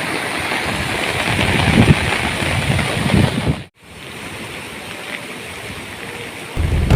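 Rushing water of a river swollen high and fast by heavy rain, with wind buffeting the microphone. The sound cuts out briefly a little under four seconds in and comes back quieter, and a louder, deeper sound comes in just before the end.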